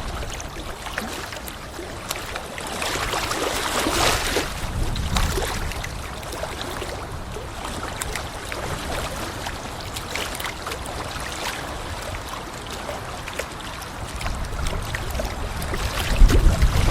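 Small lake waves washing onto a sand beach of Lake Titicaca, swelling and easing. Gusts of wind rumble on the microphone, strongest near the end.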